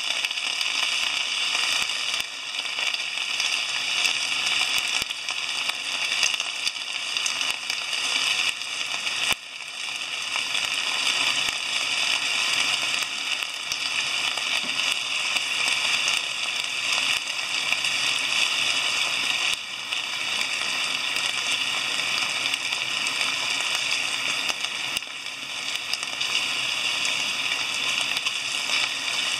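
Chicken thigh pieces, shimeji mushrooms, green peppers and eggplant sizzling steadily in a hot frying pan as they are stir-fried.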